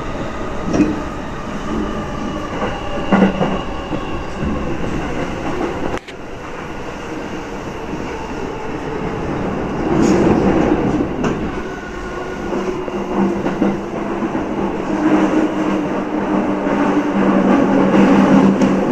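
A JR Chuo Line electric commuter train running along the track, heard from inside the passenger car: a steady rumble of wheels on rail with a few short clicks. A sudden brief dip comes about six seconds in, and a steady low tone sits under the rumble for the last several seconds.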